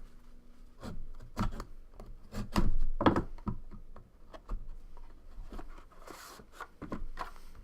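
Cardboard and plastic being handled as a sealed trading-card box is opened: a string of short knocks, rubs and scrapes, with a brief tearing rustle about six seconds in.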